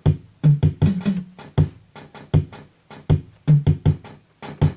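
Soviet-era Sound Auto Drummer preset drum machine playing a rhythm pattern: low bass-drum thuds with sharp hi-hat ticks between them. The snare and clap stay silent because the unit is faulty.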